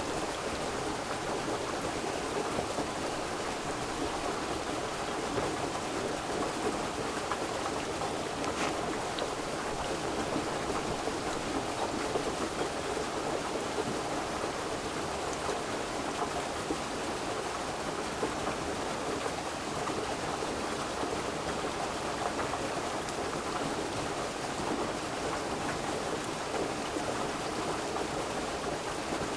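Steady rushing water, an even, unbroken wash of noise.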